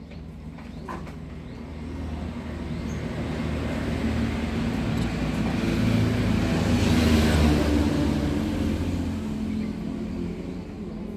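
A motor vehicle passing by: a low engine and tyre rumble swells to a peak about seven seconds in, then fades.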